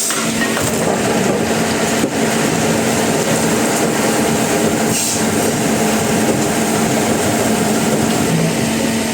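Sawmill machinery running steadily: a continuous loud mechanical noise with a constant low hum under it, dipping briefly about two seconds in.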